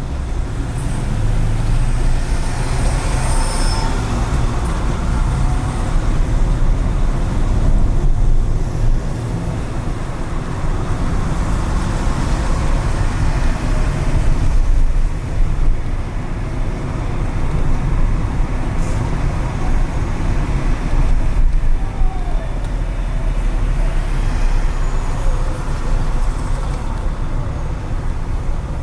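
Steady road noise from a car driving through city traffic: a low rumble of engine and tyres, with other vehicles, including buses or trucks, around it.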